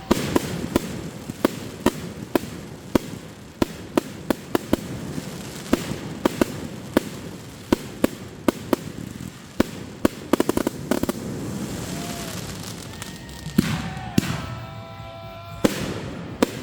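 Aerial fireworks going off in a rapid series of sharp bangs over a continuous rumble, with a dense burst of crackling about ten seconds in.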